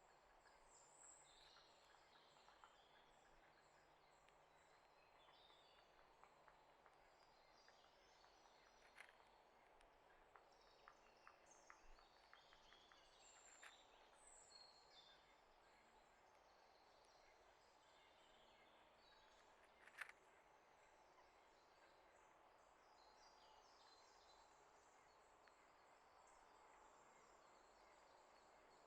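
Faint outdoor background with scattered small bird chirps and a few sharp clicks, the loudest about twenty seconds in.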